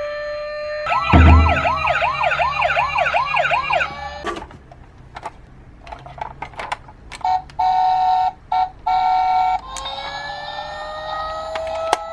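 Emergency vehicle sirens: a fast up-and-down yelp for about three seconds, then a quieter stretch with scattered clicks, a steady tone cut on and off a few times, and a slow rising wail near the end.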